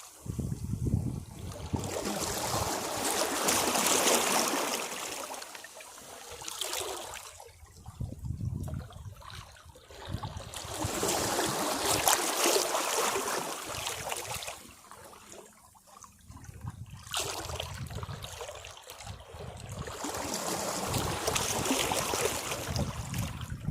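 Sea waves breaking against rocks. Three surges, about nine seconds apart, each swell for a few seconds and then drain away, with a trickling wash between them.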